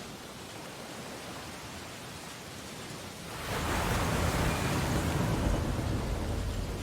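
Ocean waves on a beach: a low wash of surf, then about halfway through a wave breaks and surges up the shore, swelling louder for a couple of seconds before fading.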